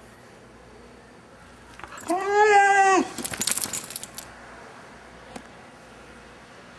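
Vizsla puppy giving one drawn-out, pitched whining call about two seconds in, lasting about a second, followed by a second of rattling clicks.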